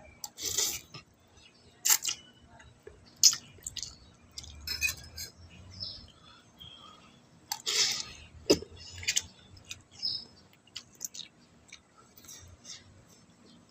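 Eating sounds: chewing and mouth noises with scattered clinks of utensils against dishes, coming at irregular intervals.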